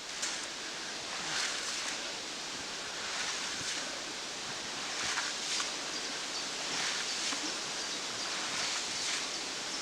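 Steady outdoor background hiss with a few faint, soft rustles every second or two.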